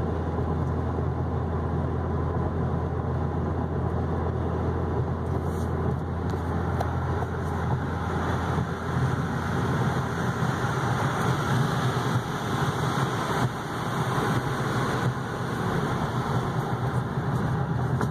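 Steady engine and road noise inside the cabin of a 2014 Cadillac ATS with a direct-injected V6, driving along at an even pace.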